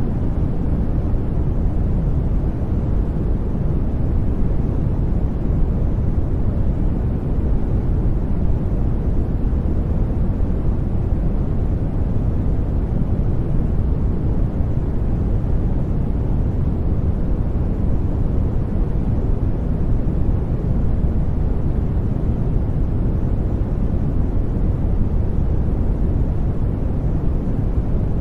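Brown noise: a steady, deep hiss that stays the same throughout, strongest in the bass and thinning out toward the treble.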